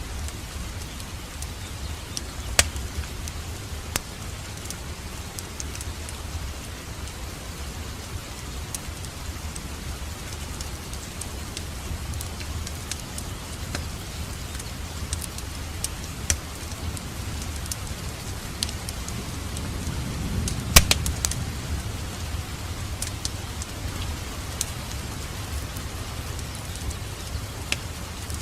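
Wood fire crackling in a fireplace: a steady low rumble and hiss of burning with scattered sharp pops, the loudest pop a little before two-thirds of the way through.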